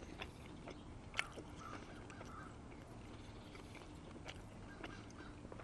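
Faint closed-mouth chewing of a mouthful of steak, with a few soft mouth clicks, the sharpest about a second in.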